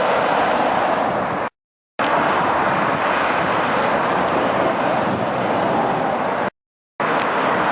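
Heavy traffic on a dual carriageway: a steady wash of tyre and engine noise from passing lorries and cars. It is broken twice by sudden half-second dropouts to dead silence.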